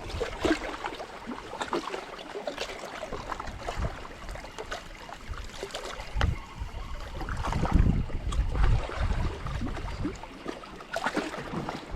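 Water sloshing around a small boat at sea with wind on the microphone, scattered small clicks and knocks, and a stronger gust rumbling on the microphone about two-thirds of the way through.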